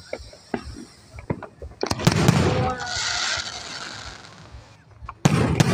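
Aerial fireworks: a few small pops, then a loud shell burst about two seconds in, followed by a couple of seconds of high crackling as the glittering stars fizz out. Another loud bang comes near the end.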